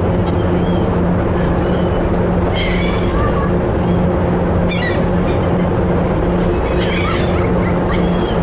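Ferry's engines running with a steady low drone, and seagulls giving short high calls a few times over it.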